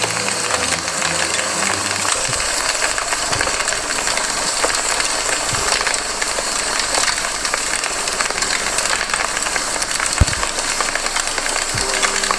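Campfire crackling steadily with a dense run of small snaps and pops, and a few deeper pops from the burning wood, the strongest about ten seconds in.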